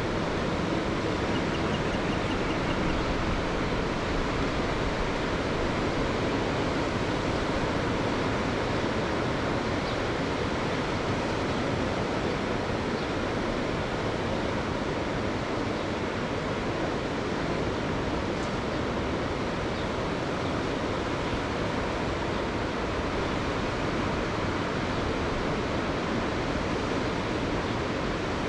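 Mediterranean sea surf: waves washing steadily, an even hiss with no single wave standing out.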